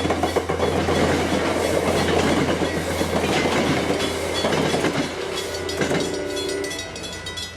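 Train passing, its wheels clattering over the rails above a steady low rumble. It fades away over the last second or two.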